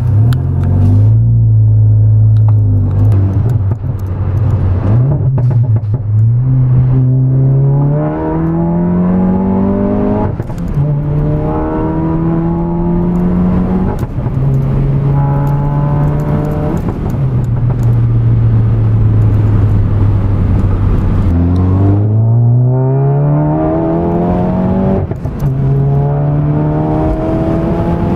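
A Volkswagen Mk7 Golf's turbocharged 2.0-litre four-cylinder runs through a Armytrix valvetronic exhaust with its valves open during acceleration pulls. The engine note climbs in pitch and drops back at each upshift, with a hard climb a little after twenty seconds in.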